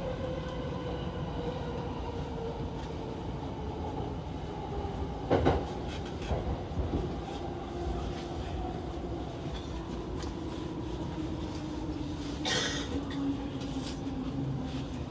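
Electric commuter train slowing as it pulls into a station, heard from inside the car: a slowly falling motor whine over steady running noise. About five and twelve seconds in, the wheels clack over rail joints or points.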